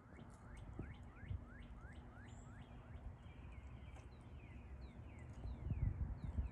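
A songbird singing a fast run of rising chirps, about three a second, then a string of falling whistled notes. Underneath is a low rumble with a few thumps, heaviest near the end.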